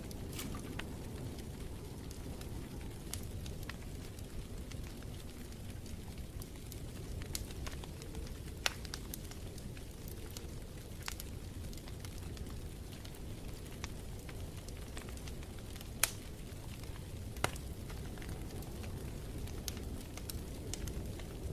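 Wood fire burning in a fireplace: a steady low rumble with scattered sharp pops and crackles, three louder pops standing out, one about 9 seconds in and two near 16 and 17 seconds.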